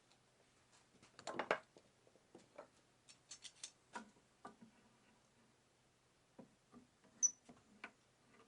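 Faint, irregular small clicks and knocks, like objects being handled. There is a denser rattling cluster about a second in and a brief high squeak near the end.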